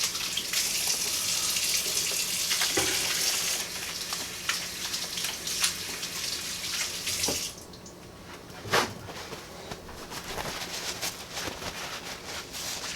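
Kitchen faucet running while hands are washed under it, a steady rushing hiss that stops about seven and a half seconds in when the tap is shut off. A few light clicks and a sharper knock follow.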